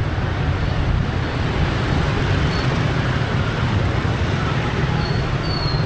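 Road traffic heard from a moving motorbike: a steady rumble of engines and tyre noise. There is a short high-pitched tone about two and a half seconds in and a longer one near the end.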